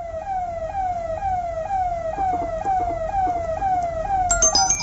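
Electronic siren wailing in a repeating pattern: each tone falls in pitch and snaps back up, about twice a second. Near the end, high tinkling chime-like tones cut in.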